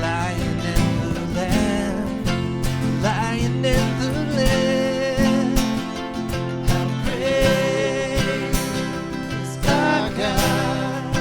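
Live worship band music: strummed acoustic guitar over a steady bass line, with a singing voice holding long melodic notes.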